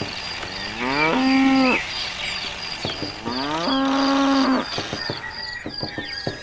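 A cow mooing twice, each call rising in pitch and then held. A high chirp repeats steadily in the background.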